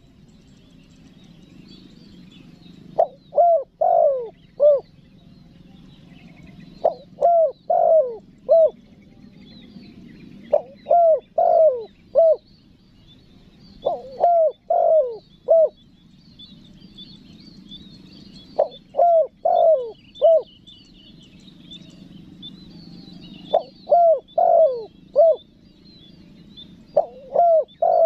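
Spotted dove cooing its calling song: a phrase of about four short coos, each falling in pitch, repeated every three to four seconds. Small birds chirp faintly behind it.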